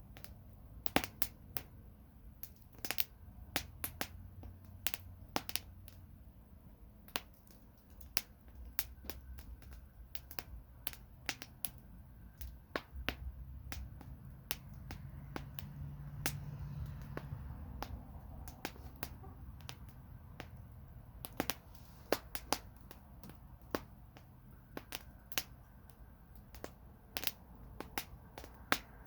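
Campfire crackling, with irregular sharp pops and snaps of burning wood over a low rumble that swells about halfway through.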